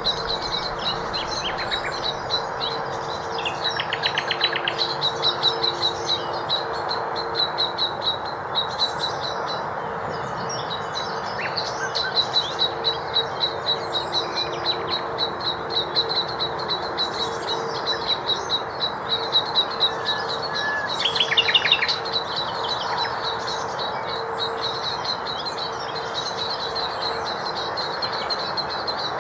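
Woodland birdsong with snatches of nightingale song: rapid high repeated notes throughout, and short fast trills about 4 seconds in and again near 21 seconds. Under it runs a steady low hum of industrial noise.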